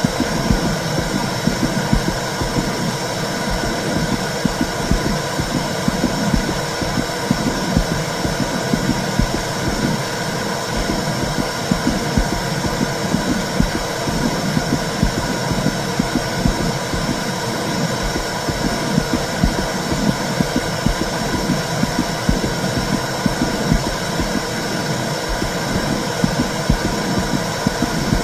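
Womb sounds played for soothing a baby: a steady whooshing rumble with fast, irregular pulsing in the bass, like muffled blood flow heard from inside the uterus.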